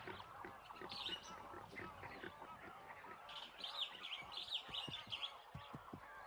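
Faint chorus of many small birds chirping densely, with a brighter run of higher-pitched chirps joining about three seconds in.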